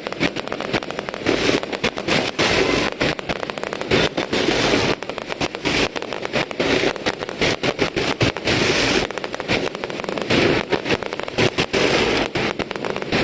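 Fireworks display: many shells bursting and crackling in dense, rapid succession, with no break.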